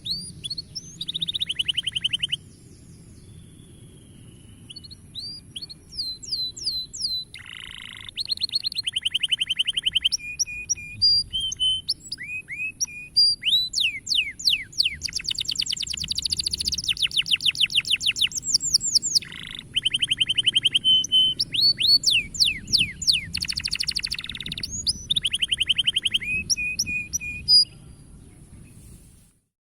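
Domestic canary singing a long, varied song of rapid trills and fast runs of repeated sweeping notes, in phrases broken by short pauses. A faint steady high-pitched whine runs underneath, and the sound cuts off abruptly near the end.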